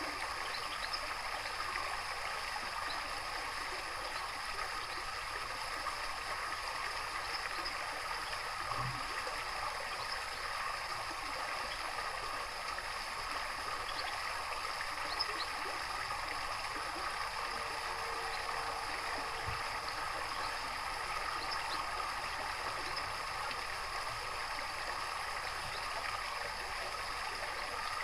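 Steady running, gurgling water, even and unbroken throughout, with a few faint short high chirps now and then.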